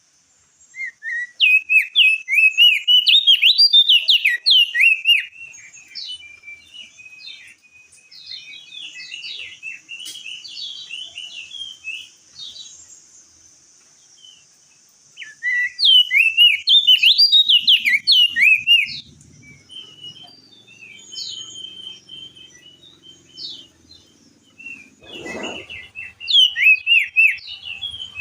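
Opior jambul (crested white-eye) singing: three loud bursts of fast, jerky chattering song with quieter twittering phrases between them. A single short knock sounds near the end.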